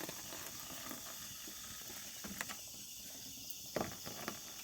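Faint, steady night-insect chirring, with a few short scattered clicks and knocks, the loudest of them nearly four seconds in.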